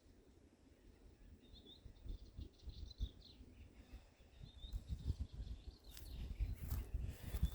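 Small bird chirping in short bursts, over irregular low thuds that grow louder toward the end.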